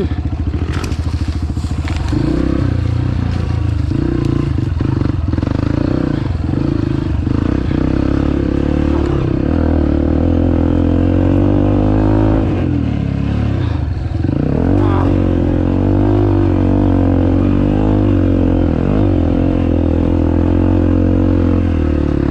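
Dirt bike engine running under load, the revs climbing and dropping several times with throttle and gear changes, and a brief dip about two-thirds of the way through. A few sharp clacks sound in the first couple of seconds.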